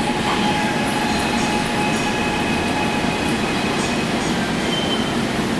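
Gwangju Metro Line 1 subway train running on the track: a steady rumble of wheels on rail with a faint, steady whine over it.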